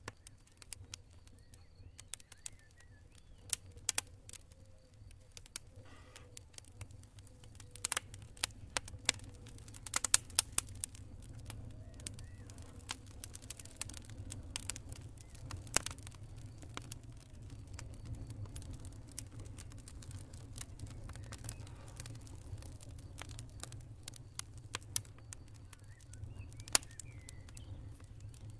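Campfire burning with irregular sharp pops and snaps of crackling wood, a flurry of louder ones about a third of the way in, over a low steady rumble.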